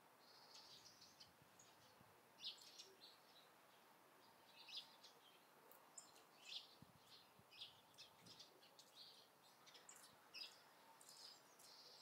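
Faint bird chirps: short, high calls scattered irregularly, about one every second, some a little louder than the rest.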